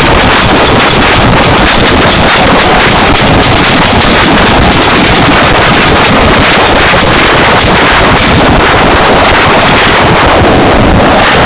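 Harsh noise music: a loud, unbroken wall of distorted noise filling the whole range from deep rumble to high hiss, with no beat or melody.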